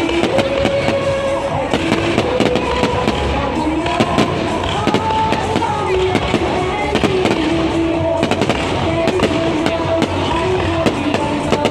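Aerial fireworks going off in a fast, continuous run of bangs and crackles, with music with a melody playing throughout.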